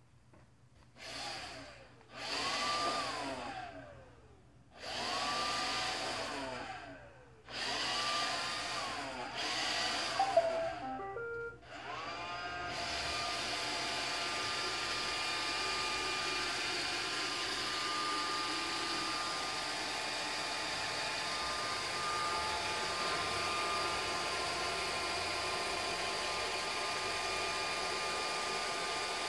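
iRobot Roomba 620 robot vacuum's motors whining up and winding down in about five short bursts, then running steadily from about twelve seconds in.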